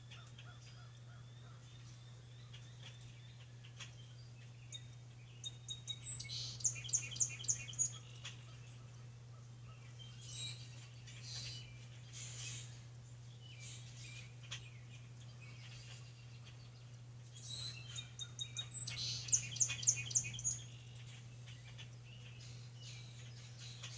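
Birds singing outside: two loud phrases of quick, evenly repeated high notes, one about six seconds in and another near twenty seconds, with softer chirps between them. A steady low hum runs underneath.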